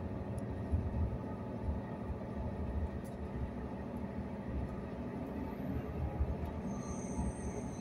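Passenger train running along the track, a steady low rumble heard inside the carriage. Near the end a high-pitched squeal of the wheels on the rails sets in.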